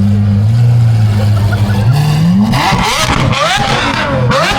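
A car engine idling steadily, then revved hard from about two seconds in, its pitch climbing and dropping several times.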